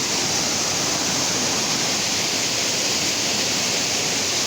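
Waterfall rushing: a loud, steady roar of falling water with no break.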